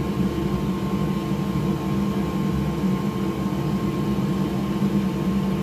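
Steady whirring drone of a small electric blower motor at a soldering bench, with a faint steady whine above it.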